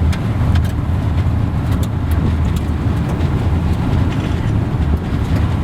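Car driving: steady low rumble of road and engine noise, with a few faint ticks.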